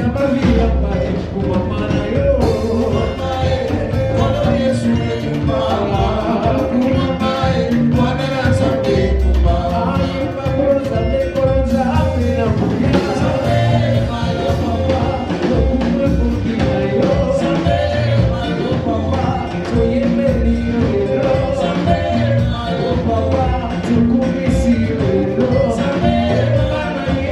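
Live band playing an upbeat worship song with bass, drums and singing.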